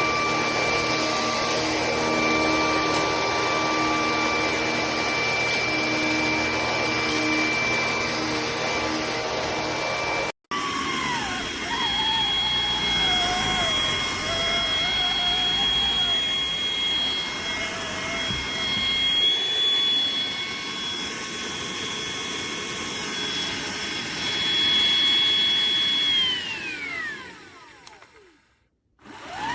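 Hoover ONEPWR Evolve Pet Elite cordless stick vacuum running with a steady high whine over a rush of air. The sound breaks off abruptly for an instant about a third of the way in. Near the end the motor shuts off and its whine falls away as it spins down, then it starts again with the whine rising just before the end.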